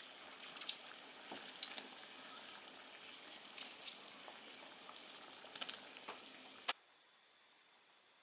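Food frying in a pan: a steady sizzle with scattered sharp pops and spits, which cuts off suddenly about seven seconds in.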